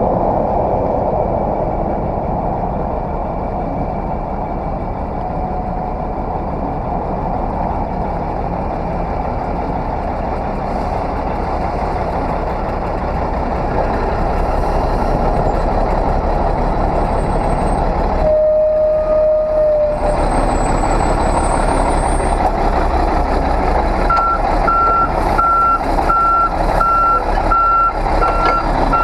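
Semi-truck running, a steady engine and road drone. The low rumble drops out for a couple of seconds about two-thirds through. From near the end, a high electronic beep repeats about once a second, like a backup alarm.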